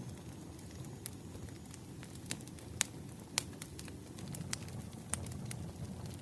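Wood fire burning: a steady low rumble with irregular sharp crackles and pops, two louder pops about half a second apart near the middle.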